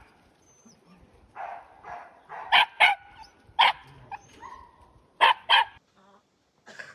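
Dog barking: a run of short, sharp barks, several coming in quick pairs, with a few softer barks and whines between.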